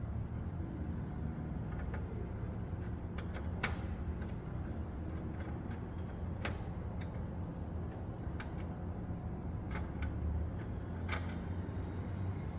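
Scattered light metal clicks and taps of a screwdriver and screws as motherboard screws are driven into a desktop computer case, irregularly spaced, over a steady low background hum.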